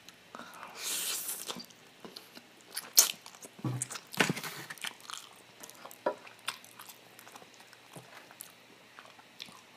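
Close-miked eating: a person chewing food, with wet mouth smacks and scattered clicks, and a short breathy hiss about a second in.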